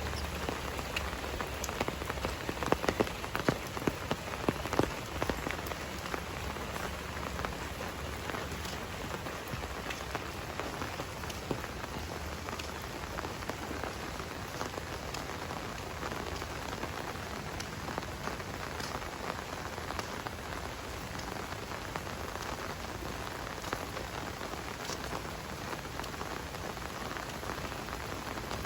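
Steady rain falling, with individual drops pattering on a surface throughout and a run of louder drops a few seconds in.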